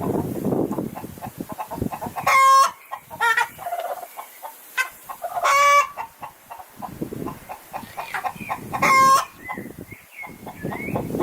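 Chicken calling: three loud, short, sharply pitched squawks about three seconds apart, with softer clucking between them.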